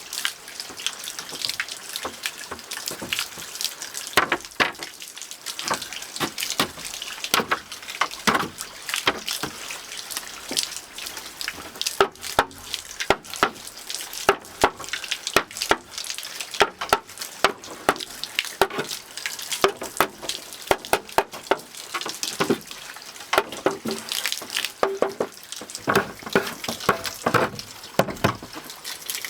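Running water with many irregular drips and splashes, several a second.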